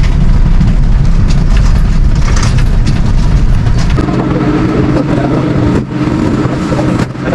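Engine running loudly with a low rumble. About four seconds in its sound changes to a steadier pitched hum.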